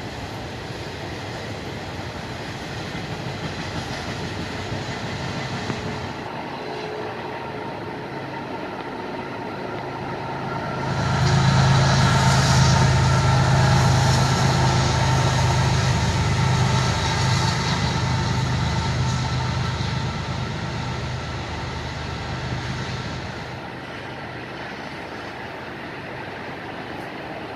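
Freight train rolling past with steady wheel-and-car noise. About ten seconds in, a diesel locomotive's engine comes up loud with a steady low drone, passes, and fades back to the rolling cars about two-thirds of the way through.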